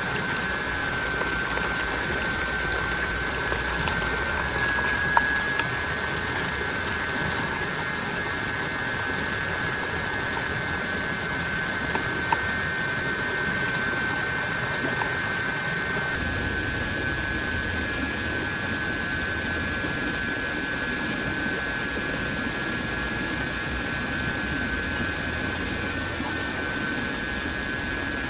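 Steady hiss of rain on a tent and tarp, under a forest insect chorus: one steady high whine and a fast, even pulsing chirr. The pulsing and some of the low rumble stop about sixteen seconds in, and two small taps are heard early on.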